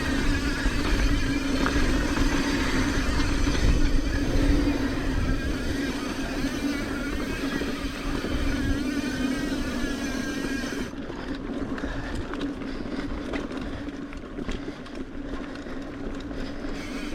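Mountain bike riding along a dirt trail: wind buffeting the camera microphone with a low rumble, over the steady noise of tyres and drivetrain. The high hiss cuts out suddenly about eleven seconds in.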